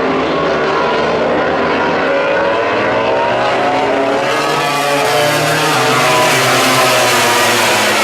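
MotoGP racing motorcycle's four-stroke engine at high revs, its pitch falling over the first two seconds and then climbing again, as the bike slows for a corner and accelerates out.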